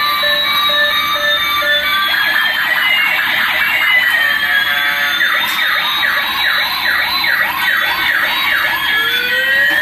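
Toy police car's electronic siren: overlapping wailing tones that sweep up and down, with a fast warbling yelp of quick repeated chirps through the middle.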